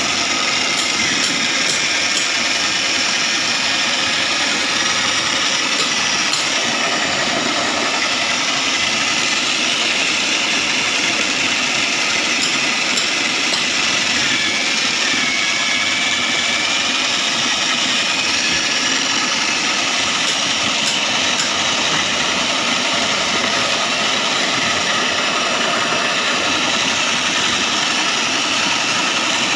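Foam shredding machine running steadily, a constant mechanical noise with a high whine over it.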